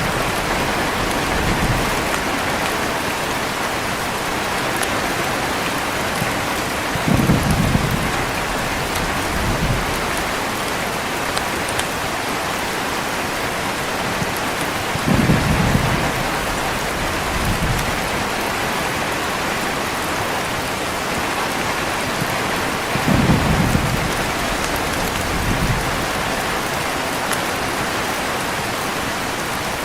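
Heavy rain falling in a steady hiss, with short low rumbles of thunder about every eight seconds.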